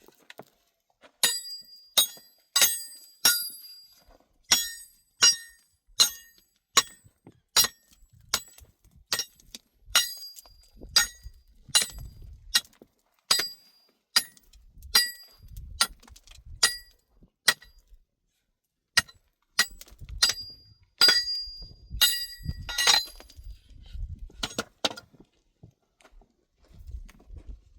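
Repeated sharp, ringing knocks of hard blows on stone, one or two a second, with a short pause about two-thirds of the way through and a few dull low thuds among them.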